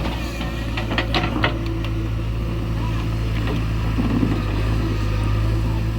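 Heavy diesel engine running steadily at a low, even pitch, with a few sharp knocks about a second in.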